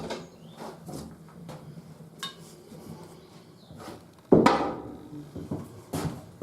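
Objects being handled in a workshop: scattered light clicks and knocks, with one loud clank about four seconds in that dies away quickly and a smaller one near the end.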